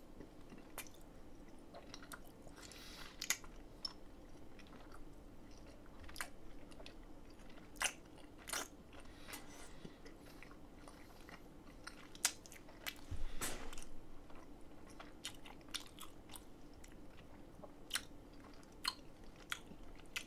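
Wet, sticky chewing of a mouthful of giant gummy worm jelly, heard up close, with irregular smacking clicks of lips and tongue as it is worked around the mouth.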